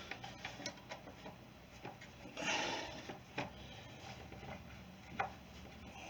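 Light clicks and knocks of parts being handled as a Stihl FS40C string trimmer is reassembled, with a brief scraping rustle about two and a half seconds in.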